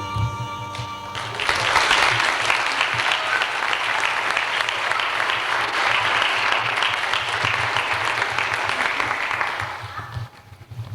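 Audience applauding, starting about a second in as the last held notes of the music die away, and fading out near the end.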